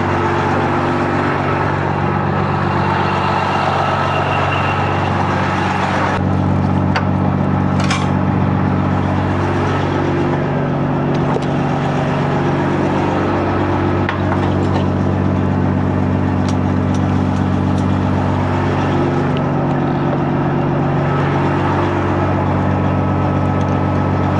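Diesel engine idling steadily, its pitch shifting slightly about six seconds in, with wind noise over it.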